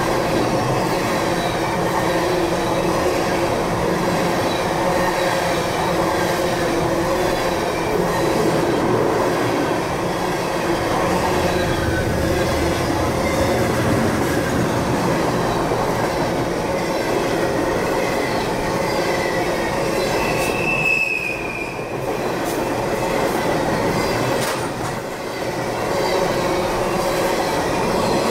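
Freight train rolling steadily, heard from aboard one of its cars: a continuous loud rolling noise with steel wheels squealing on the rails. A short high squeal stands out about twenty seconds in.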